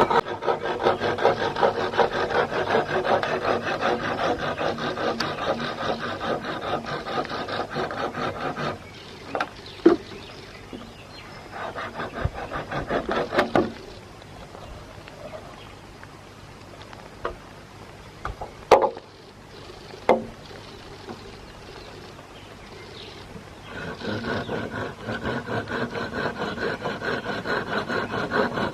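A hand tool rubbing back and forth on wood in quick, even strokes, like rasping or sanding. It stops about nine seconds in, leaving a quieter stretch with a few sharp knocks, and the strokes start again near the end.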